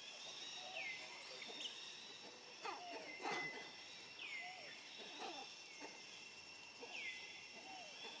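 Outdoor animal calls: a call that drops in pitch and then levels off repeats about every two seconds over a steady high insect-like drone, with short squeaks scattered between. A few faint clicks come about three seconds in.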